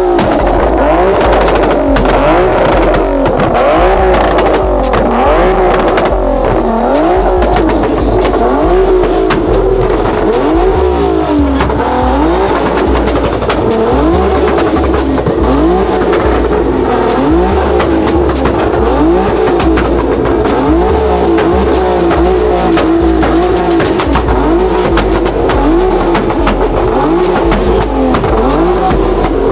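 Car engine revved over and over, its pitch rising and falling about once a second, with tires squealing, as in a burnout. Background music with a heavy bass line runs underneath.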